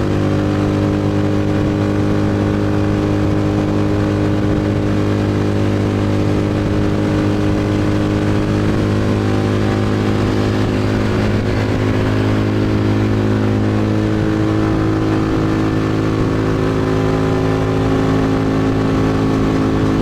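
Motorcycle engine running at a steady cruising speed, its pitch sagging briefly about halfway through and then picking up again.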